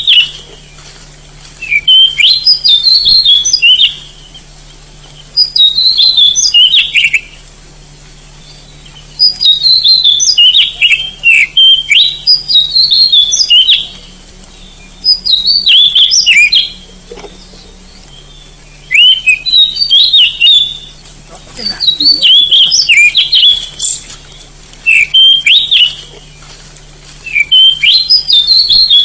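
Oriental magpie-robin singing loud, varied whistled phrases, each about two seconds long, coming every three to four seconds. A faint steady low hum lies underneath.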